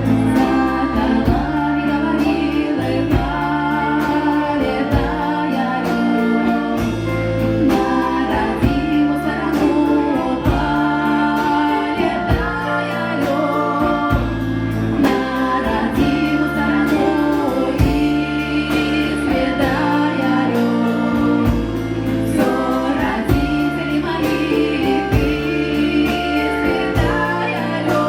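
Folk-rock band performing a Russian folk song: singing over a band with a steady drum beat and bass.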